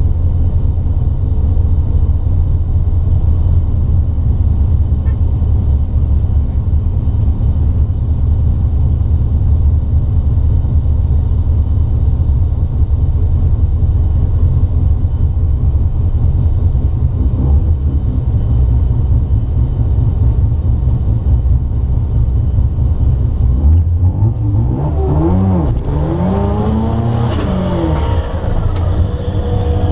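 Turbocharged 13B rotary engine of a 1972 Mazda RX2 idling, heard from inside the cabin. About three-quarters of the way through, the revs rise and fall several times as the car rolls forward.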